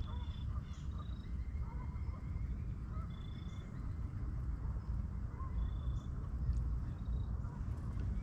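Steady low rumble of wind on the microphone, with a few faint, short bird calls scattered through it.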